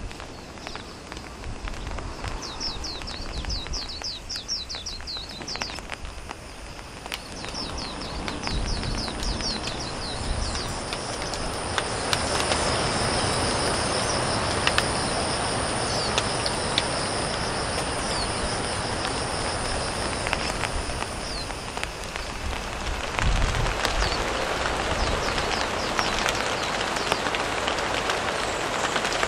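A wild bird singing two runs of rapid, quickly falling high notes, each lasting a few seconds, over a steady high-pitched whine. From about twelve seconds in, a louder steady rushing noise like rain takes over, with only a few scattered single notes above it.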